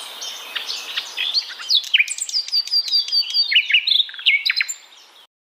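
Pet parrot chirping: a rapid run of short, sharp high-pitched calls, many sliding down in pitch, which stops suddenly near the end.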